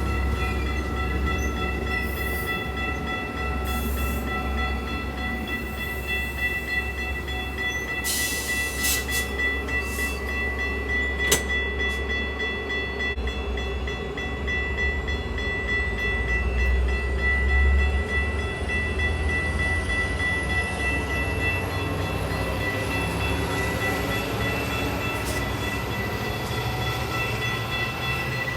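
Train running with a steady, heavy low rumble and a steady high whine, with a few sharp clicks about a third of the way in.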